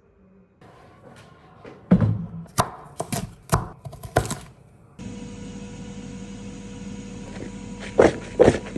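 Kitchen clatter of cooking: a run of sharp knocks and thuds. From about five seconds in a steady appliance hum starts, with more knocks near the end.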